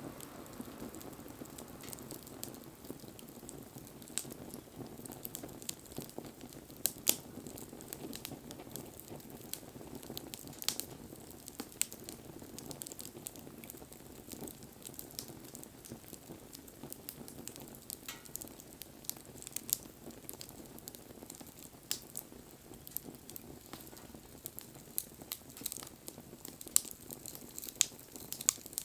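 Campfire burning, crackling with irregular sharp pops over a steady low hiss.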